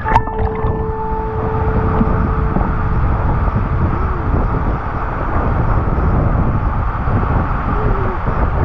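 Steady car road noise while driving, with a sharp click right at the start.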